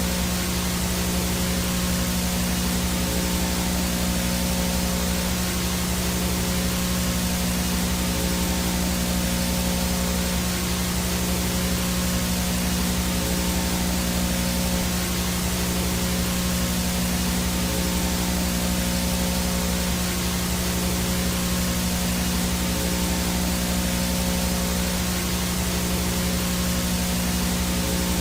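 VHS static noise from a blank, no-signal analog video tape: a steady, even hiss with a constant low hum under it and a faint thin high tone above.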